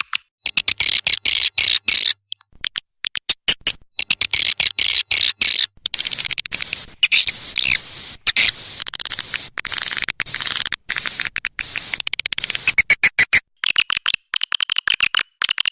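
Swiftlet calls played as a lure recording: dense, rapid chattering twitters and chirps in runs, broken by abrupt cuts where the edited compilation jumps between clips.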